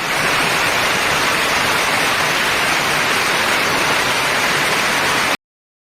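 A steady, dense hiss of noise that cuts off suddenly about five seconds in.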